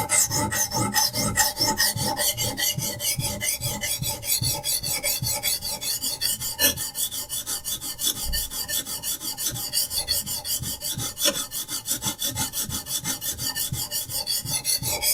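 Diamond sharpening stone on a Hapstone RS guided sharpening system rasping along a steel knife edge in quick, even back-and-forth strokes, several a second.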